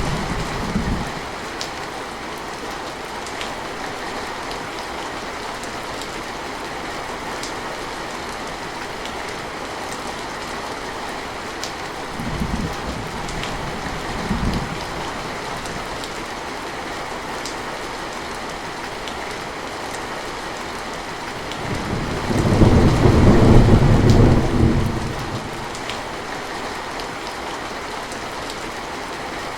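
Steady rain with scattered drips, broken by low rumbles of thunder. There are two brief rumbles near the middle and a longer, louder roll of thunder near the end lasting about four seconds.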